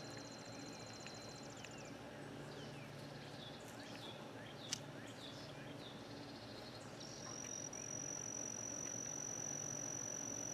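Evening chorus of crickets and other insects. A fast pulsing high trill runs over the first two seconds, short chirps follow, and a steady high buzz sets in for the last three seconds. A single faint click comes a little before the middle.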